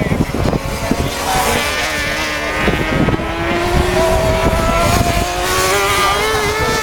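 Superbike racing motorcycles' engines at speed, more than one bike, their pitch rising steadily as they accelerate, with low buffeting near the start.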